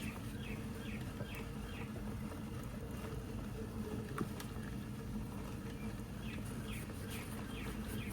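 Short falling chirps from a bird, in a run of four or five about two a second near the start and again near the end, over a steady low hum.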